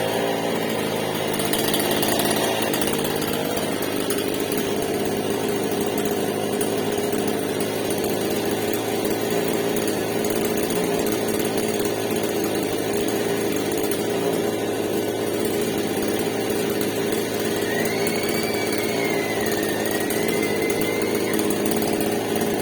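Stihl MS788 two-stroke chainsaw running at a steady speed, with no revving or change in pitch.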